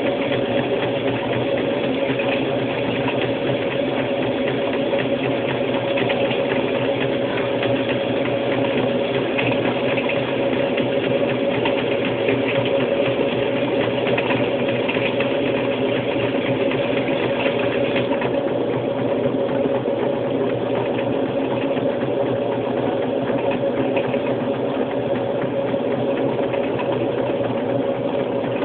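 Brastemp Luxo top-loading washing machine in its spin cycle, motor and drum running at a steady speed: a constant hum with one strong held tone over a dense mechanical rattle. The higher rattle eases slightly about two-thirds of the way through.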